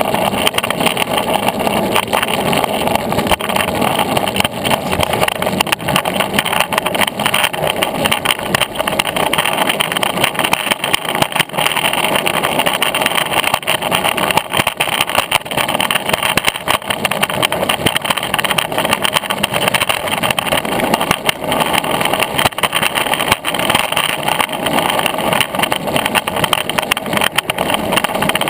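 Longboard wheels rolling over a rough path surface: a steady, loud rumble of road noise broken by frequent short clicks and knocks.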